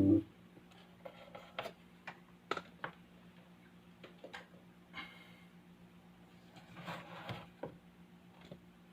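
Faint steady electrical hum from a speaker, the hum fault being worked on, with scattered light clicks and knocks over it.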